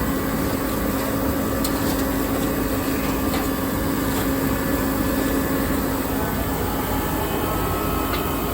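Steady droning hum of background machinery, a constant tone over even noise, with a few faint clicks.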